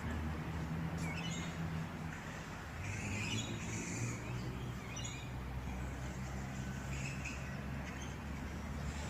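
Birds chirping and calling in short repeated phrases, over a steady low hum.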